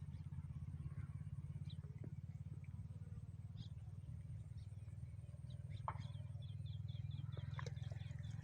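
Tractor engine running steadily, a low rumble with fast even pulsing, while small birds chirp, with a quick run of chirps near the end.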